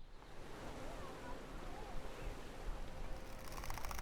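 Seafront outdoor ambience: a steady hiss of wind and surf with faint distant voices. A run of sharp clicking taps starts near the end.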